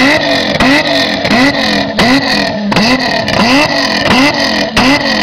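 Supercharged 2.9 VR6 engine of a Volkswagen Golf Mk3 being blipped over and over, about eight quick revs, each rising and falling in pitch, with sharp cracks from the exhaust as the throttle snaps shut between revs.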